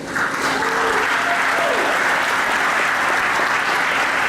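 Audience applauding, breaking out suddenly and clapping steadily.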